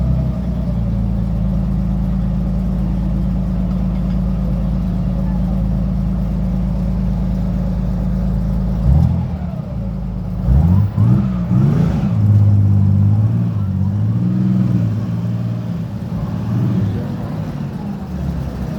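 Old car's engine running at a steady idle. About nine seconds in the steady note breaks off and the pitch rises and falls unevenly for the rest of the stretch.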